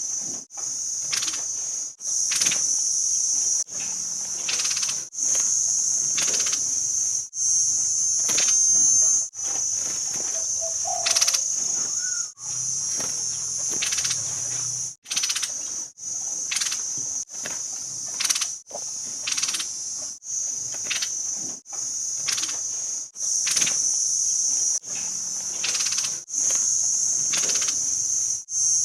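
A shrill, steady high trill with short high notes over it, broken every second or two by abrupt short gaps. It is a looped bird-training recording, a songbird's calls mixed with insect-like buzzing.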